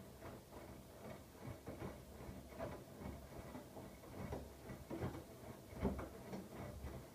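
Siemens iQ700 front-loading washing machine mid-wash, its drum turning the wet load with a steady low hum and irregular soft thuds as the laundry tumbles.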